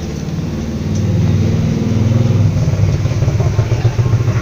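A motor engine running steadily close by, getting a little louder about a second in.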